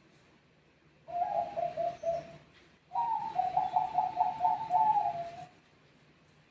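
Perkutut Bangkok zebra doves cooing: a short stuttering coo phrase about a second in, then a longer, higher and louder phrase of rapid pulsed coos lasting about two and a half seconds.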